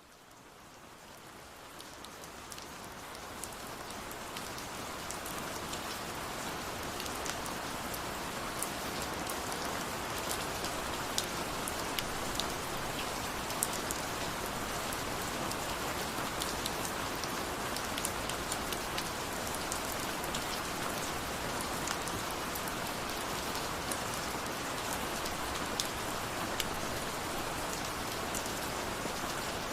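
Steady rain with many individual drops tapping close by, fading in over the first few seconds and then holding even.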